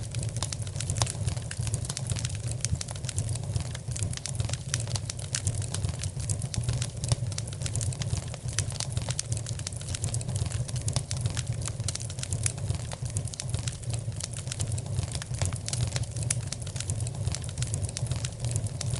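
Wood fire crackling in a fireplace: many small, irregular sharp pops over a steady low rumble.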